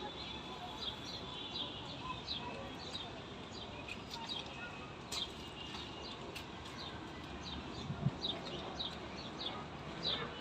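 Small birds chirping over and over, short quick downward-sliding chirps a few times a second, over a steady outdoor hiss, with one brief low bump about eight seconds in.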